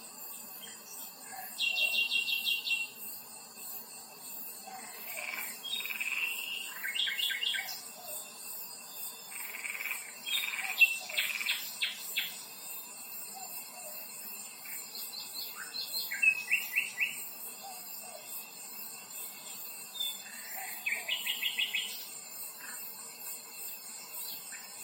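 Songbirds singing short trilled phrases every few seconds over a steady high-pitched insect buzz.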